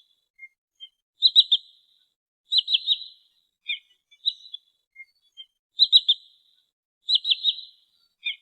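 Sandpiper (trinil) calls from a lure recording: sharp, high notes given in quick triplets, repeated four times, with single short notes scattered between.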